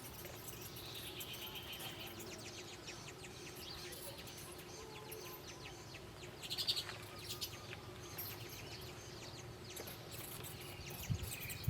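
Small wild birds chirping faintly, with short scattered calls and a brief louder run of chirps a little past halfway. A low thump comes shortly before the end.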